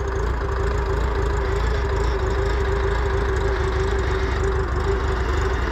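Wisconsin 30 HP engine of a Massey Ferguson 771 hydrostatic skid steer running steadily, with a steady tone over its rumble, as the machine moves. The engine was freshly freed from being seized.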